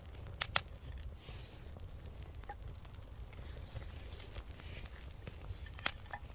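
Small wood fire burning: a steady low rumble with light crackling and three sharp pops, two close together about half a second in and one near the end.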